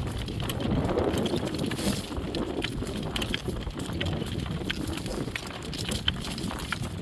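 A driven horse's hooves clip-clopping in a quick, irregular patter over a low steady rumble.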